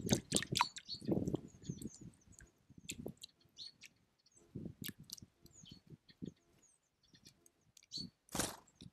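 Small songbirds at a feeder giving short high chirps and call notes, mixed with soft low knocks and rustles, with a louder swish near the end.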